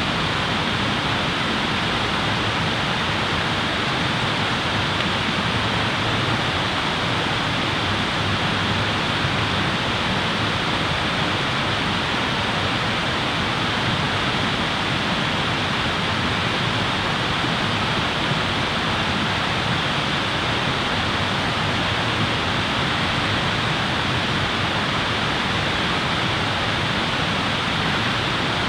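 Steady, unbroken rushing noise, even in level throughout, with no crackles or other distinct sounds standing out.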